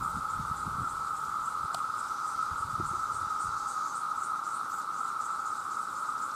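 Chorus of many male cicadas calling together: a steady, unbroken drone, with a faint rapid pulsing, about four beats a second, higher up.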